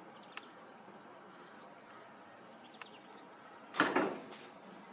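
A dog barks once about four seconds in, with a softer second sound just after, over faint steady background noise.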